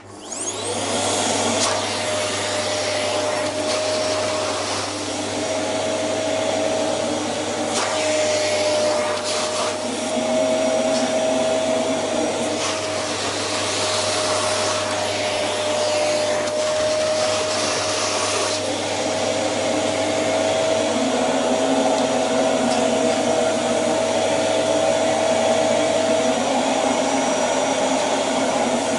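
A household vacuum cleaner switched on, its motor spinning up in a rising whine and then running loudly and steadily, the whine wavering a little in pitch; the owner thinks the machine is on its way out.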